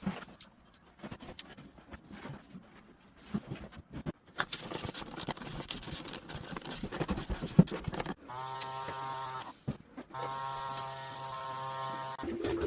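A small electric motor buzzes steadily in two spells, about a second and a half and then two seconds, with a short pause between. Before that come scattered clicks, then rattling and scraping of parts being handled.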